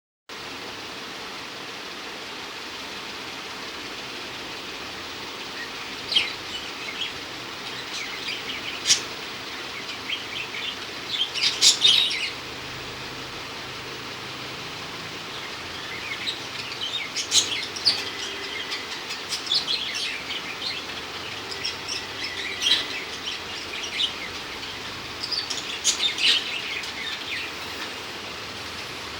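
Pet bird chirping in short, scattered bursts of high calls over a steady hiss, with the loudest cluster of calls about twelve seconds in.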